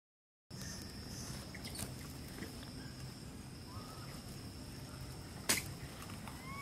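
Outdoor ambience with a steady high-pitched insect drone and a few faint, short chirping calls, broken by one sharp click about five and a half seconds in. The sound starts about half a second in after a moment of dead silence.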